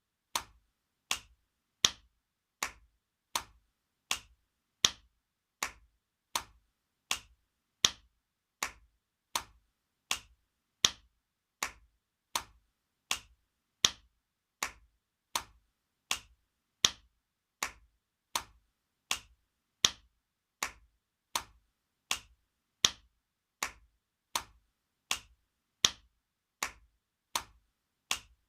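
Spanking sound effect: sharp slaps of a hand on skin, repeated about once every three-quarters of a second, some slaps louder than others.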